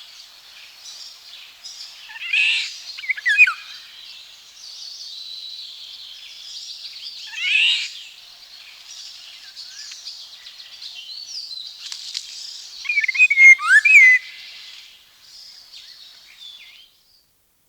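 Eurasian golden oriole giving harsh, downward-sweeping screeching calls a few seconds apart, the last pair mixed with short clearer whistled notes, over a steady background chorus of woodland birds. The recording fades out near the end.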